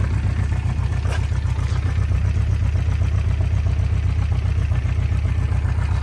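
Honda CB350 Four's inline four-cylinder engine idling steadily.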